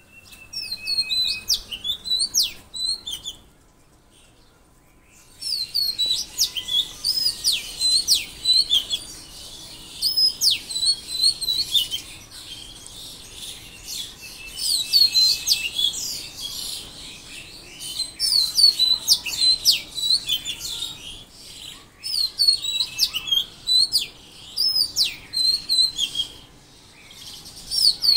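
Songbirds singing: bouts of quick, high chirping and swooping notes, each lasting a couple of seconds and repeated with short pauses, with a longer gap of about two seconds near the start.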